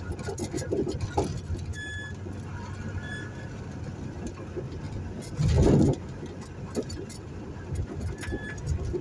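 1978 VW Fusca's air-cooled flat-four engine running on the move, heard from inside the car over road noise. A short louder rumble comes a little past halfway, and a few brief high chirps are heard.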